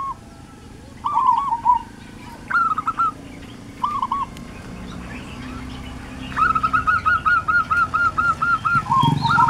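A bird calling in short runs of quick, repeated rising-and-falling notes, the longest run about ten notes near the end. The low sound of a small motor vehicle's engine comes in just before the end.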